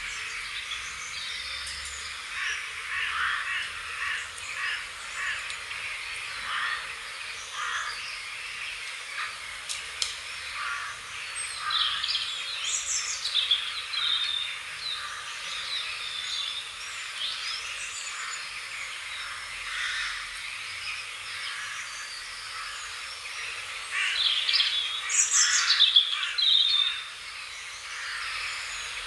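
Songbirds chirping and singing, many short calls and trills overlapping, busiest about halfway through and again loudest near the end, over a faint steady hiss.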